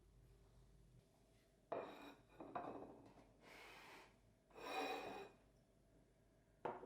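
A few small handling noises in a quiet room: a knock, some rubbing and rustling, a short hiss, then another knock near the end.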